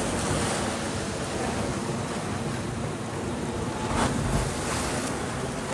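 Wind buffeting the microphone over a steady rushing noise like surf, with a stronger gust about four seconds in.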